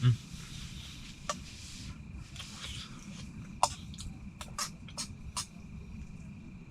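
Light clicks and taps of dishes and food containers being handled, about seven scattered through the few seconds, over a low steady hum.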